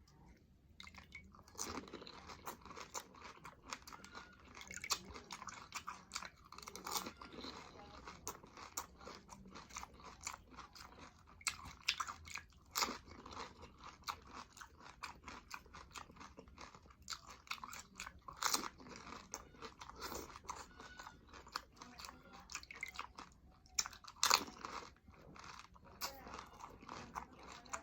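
Close-up eating sounds of someone wolfing down pani puri: repeated crisp crunches as the hollow puri shells are bitten, with wet chewing in between. The crunching starts about a second and a half in and keeps on irregularly, with a few louder bites.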